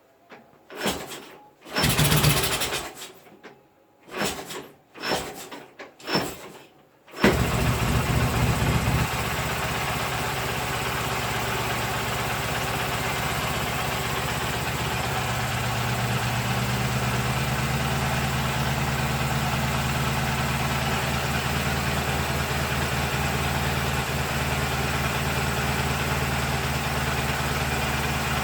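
K750M motorcycle's side-valve flat-twin engine: a few short bursts from start attempts, then it catches about seven seconds in, revs briefly and settles into a steady idle. The right cylinder's valves are audibly noisy, and one cylinder is not running properly.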